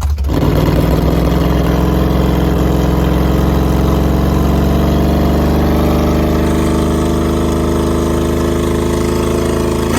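Crown Vic's 632 cubic-inch big-block V8 running loud under load at high, nearly steady revs during a burnout in second gear. The engine comes in sharply about a third of a second in.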